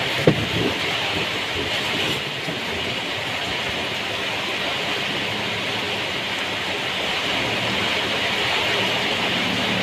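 Heavy rain falling steadily, an even dense hiss, with one brief sharp knock just after the start.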